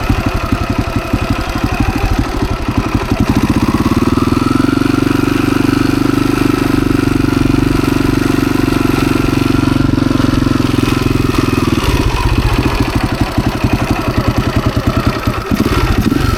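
Husaberg FE 350's single-cylinder four-stroke engine running, with a steady firing beat. About three and a half seconds in it picks up and holds higher revs, then settles back to a lower, idle-like beat about twelve seconds in.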